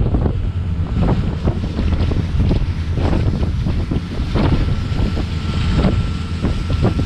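Wind buffeting the microphone in irregular gusts on the open deck of a moving cruise boat, over the boat's low, steady engine rumble.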